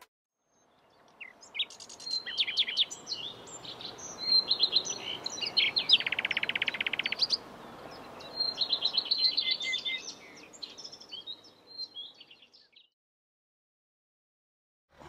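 Birds singing, a mix of varied chirps and phrases with a fast, even trill about six seconds in. It fades in after about a second and fades out near the end.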